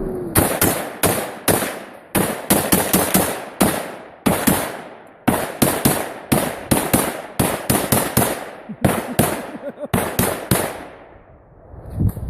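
A long string of gunshots fired in quick, uneven succession, about two dozen over some ten seconds, stopping shortly before the end.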